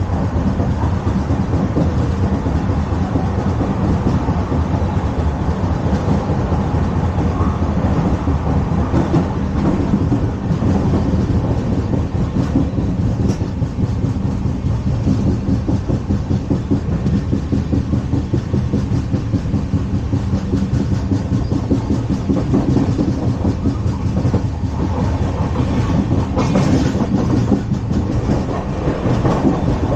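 LHB passenger coach running over the rails: a steady loud rumble with a fine rolling clatter from wheels and track, and a brief hiss near the end.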